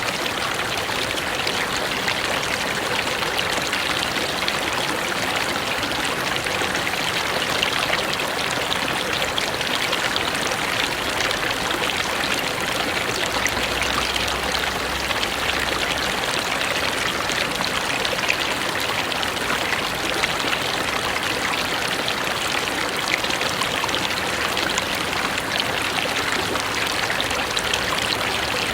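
Mountain river or stream rushing steadily over rocks, a continuous even splashing with no let-up.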